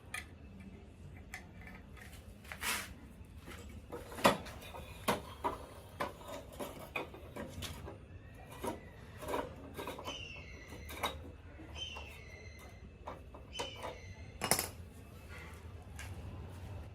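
Scattered knocks and clicks from handling things, the strongest about four seconds in and near the end, over a faint low hum, with a few short high chirps about ten to twelve seconds in.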